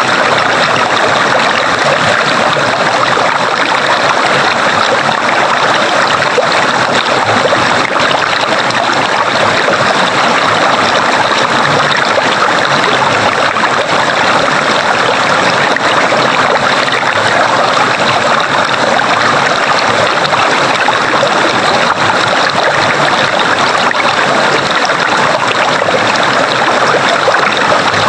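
Running water of a stream, flowing in a loud, steady rush that does not change.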